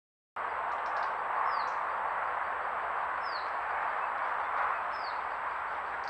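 Woodland ambience: a steady rushing hiss, with a small bird repeating a short, high, falling chirp about every second and a half to two seconds. It starts abruptly a moment in.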